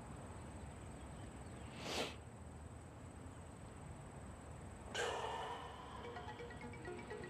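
Two short breaths or sighs over a faint background hum, one about two seconds in and a louder one about five seconds in. Soft, short repeated musical notes begin near the end.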